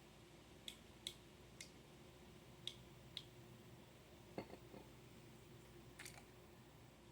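Near silence: faint room hum with about seven light, scattered clicks.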